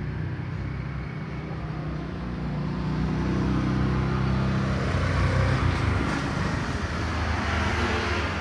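Kawasaki Z800's inline-four engine running through a full-system Spark titanium exhaust; the revs climb partway through, then drop back about six seconds in.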